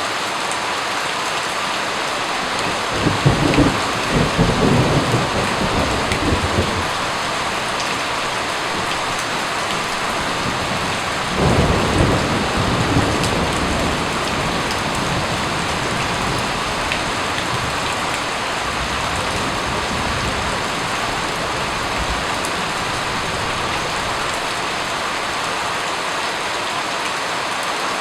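Steady rain falling, with two low rolls of thunder: one about three seconds in lasting a few seconds, and a second starting about eleven seconds in that fades over a couple of seconds.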